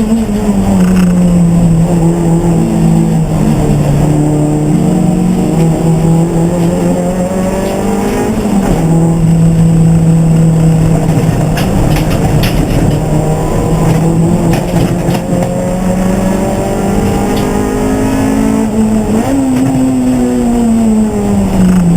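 Race car engine running hard, its pitch holding fairly steady for long stretches with a few rises and falls. Near the end the pitch jumps up and then glides down.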